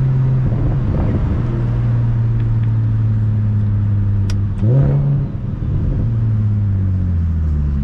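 Single-turbo BMW 335is N54 inline-six engine and exhaust holding a steady drone under light throttle. Just under five seconds in there is a quick rise in revs, and after it the pitch eases gradually lower as the car slows.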